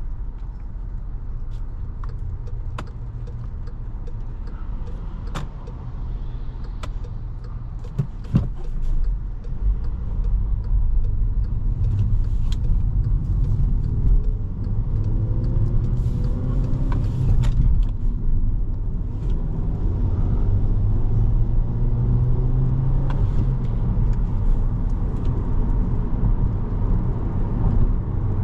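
Inside the cabin of a 2017 Volkswagen Jetta SE at highway speed: a steady low rumble of engine and road noise from the car's 1.4-litre turbocharged four-cylinder and its tyres. Scattered sharp ticks run through it, and a faint rising tone comes around the middle.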